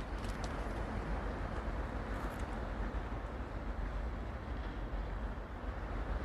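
Steady rumble of wind on the microphone over the hiss of sea surf at the shoreline, with a couple of faint light splashes near the start and about two seconds in.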